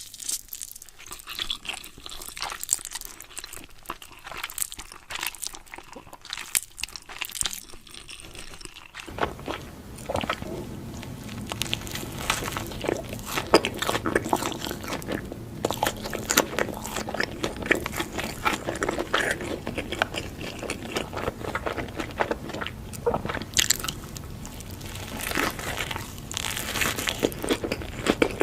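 Close-miked ASMR eating: crunchy food being bitten and chewed in a dense run of crisp crunches. About nine seconds in, a steady low hum joins the background under the crunching.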